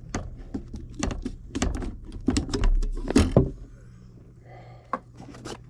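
A quick run of knocks and clatter, as of gear being handled, for about three and a half seconds. Then a quieter stretch with a single knock near the end.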